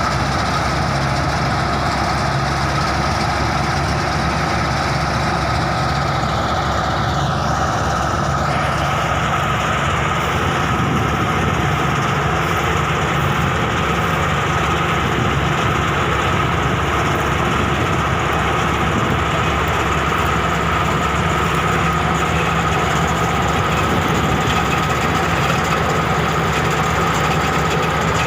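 Tudi (wheat-straw chopping) machine with a four-cylinder engine running steadily, with a constant high whine over the engine noise.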